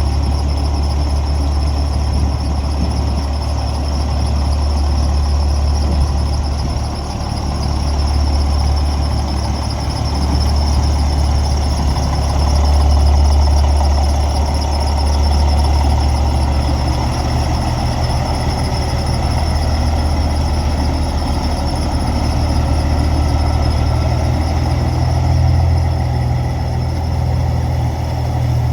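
Peterbilt semi truck's diesel engine idling after start-up, with a steady high-pitched squeal over its low running note.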